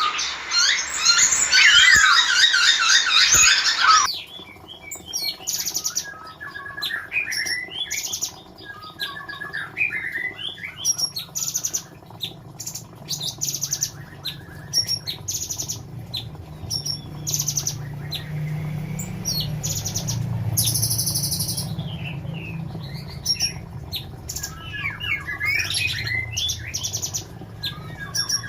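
Female blue-winged leafbird (cucak cungkok) singing: a loud run of fast, varied chirps and warbles for about the first four seconds, then scattered quieter chirps and short, sharp high calls.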